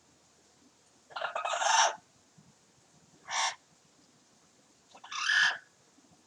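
Double yellow-headed Amazon parrot giving three short calls, the first and last the longest, in imitation of a chicken.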